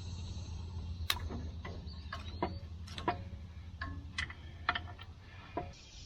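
Irregular metallic clicks of a ratchet wrench loosening the 12 mm cap screws on a tractor's hydraulic pickup screen cover, over a steady low hum that stops near the end.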